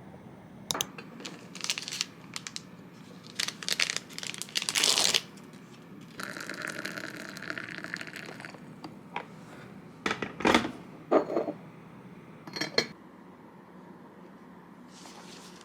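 Small objects being handled: scattered clicks, knocks and crinkling, with a steady rustling hiss for about two seconds in the middle and the sharpest knocks about two-thirds of the way through.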